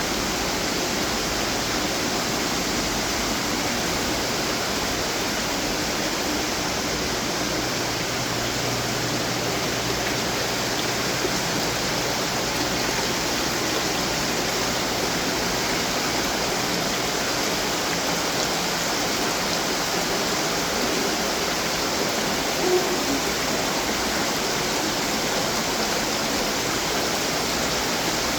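Running water from garden fountains, a steady splashing and trickling, with one short tap about three-quarters of the way through.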